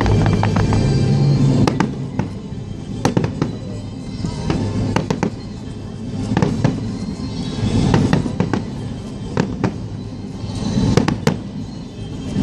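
Fireworks display: shells bursting in a run of sharp bangs and crackles, scattered unevenly, over music playing.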